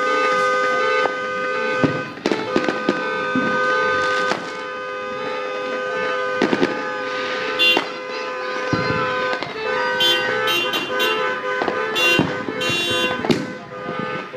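New Year's fireworks and firecrackers going off in a string of sharp bangs and, in the second half, fast crackling, over a steady car-horn-type tone that holds for long stretches with a couple of short breaks.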